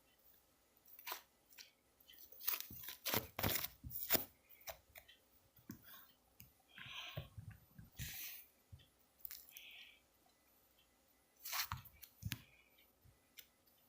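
Slime being pressed, poked and stretched by hand, giving irregular sticky clicks, pops and crackles, with a short pause about ten seconds in.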